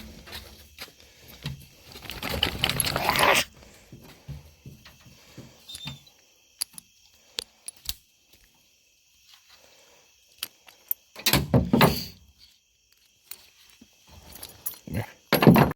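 Hunting dogs' water bowls clattering as they are handled, with short bursts of rushing, splashing noise, the longest about two seconds in and two more near the end, and scattered clinks and knocks in between as the hounds move about.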